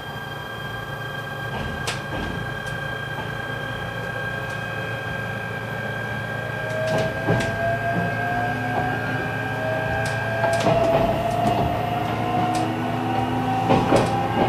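E129 series electric train pulling away from a station, its Toyo Denki IGBT VVVF inverter and traction motors giving a steady high tone and a whine that rises in pitch as the train gathers speed. The steady high tone drops out about ten seconds in. Wheels click over rail joints, and the running noise grows louder.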